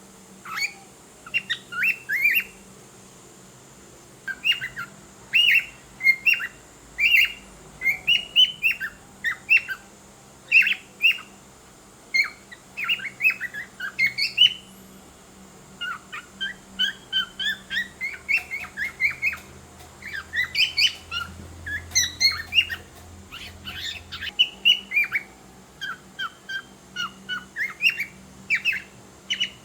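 Cockatiel chirping and whistling in quick runs of short notes, trying to sing, with a short pause a few seconds in and a busier stretch past the middle.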